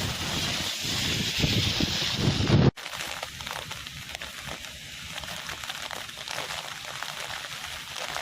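Cyclone wind gusting against the microphone with a hiss of rain. About two and a half seconds in it cuts suddenly to a quieter, steady hiss of heavy rain and running water.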